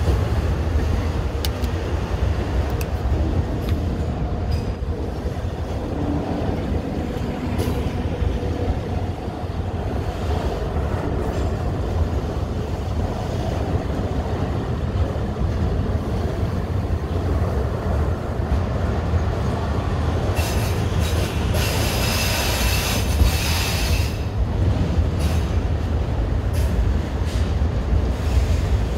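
Long Norfolk Southern mixed freight train rolling past, a steady rumble of wheels on rail. Around two-thirds of the way through, high wheel squeal rises over the rumble for a few seconds.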